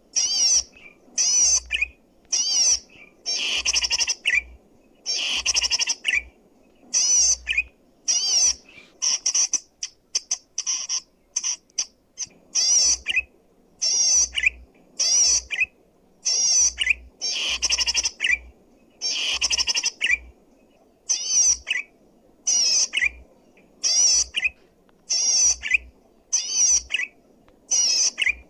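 Zitting cisticola (cici padi) singing loud and clear: short bursts of rapid, wavering high notes, about one burst a second, repeated over and over.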